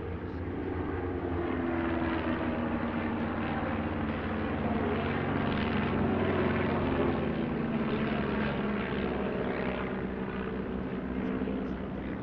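Several de Havilland Tiger Moth biplanes' piston engines droning together as the formation flies past. Their engine notes sit at slightly different pitches, swell to loudest about halfway through, then ease off with the pitches falling slightly.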